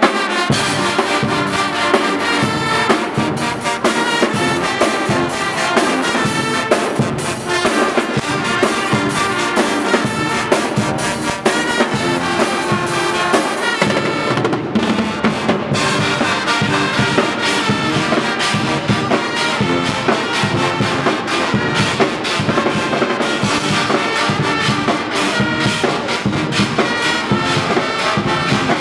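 Swiss Guggenmusik carnival band playing a tune, loud brass (trumpets and trombones) over a steady drum beat.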